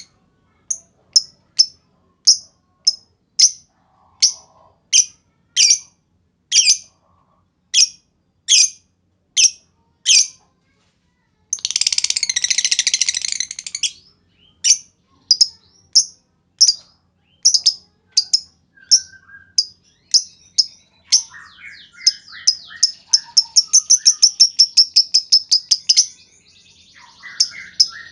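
Lovebird calling: sharp, high single chirps about once a second, a harsh dense burst of sound about halfway through, then a fast run of rapid chirps near the end, the long 'ngekek' chatter.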